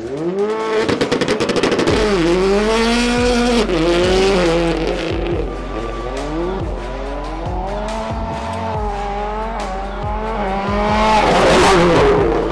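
A car engine revving hard, its pitch climbing and dropping again and again, loudest near the end.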